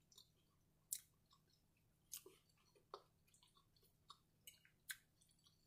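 Faint close-miked chewing with the mouth closed, marked by scattered short, wet mouth clicks about a second apart.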